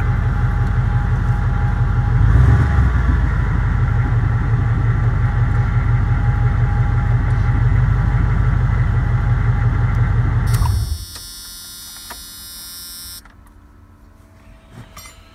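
A Toyota's engine idling steadily with a low, even pulse, heard from inside the cab; it is barely warmed up and running on a junkyard fuel injection setup after the old injectors were ruined by water in the tank. About eleven seconds in the engine cuts off suddenly, and a quieter high-pitched hiss follows for a couple of seconds.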